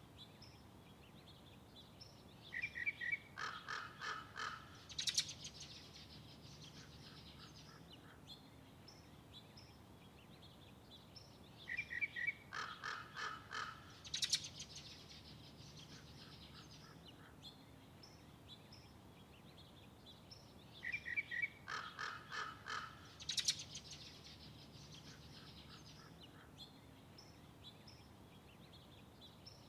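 A songbird singing the same song three times, about nine seconds apart: each song runs three to four seconds, a short run of clear notes, then rapid repeated notes, ending on a high buzzy note. A faint steady background hum lies under it.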